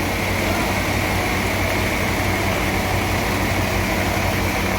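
Portable band sawmill running steadily: a constant engine hum with a steady high whine.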